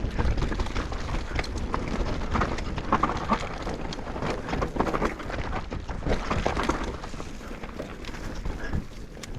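Mountain bike riding fast down a rough dirt trail: tyres rumbling over the ground with frequent sharp knocks and clatters from the chain and frame as the bike hits roots and rocks.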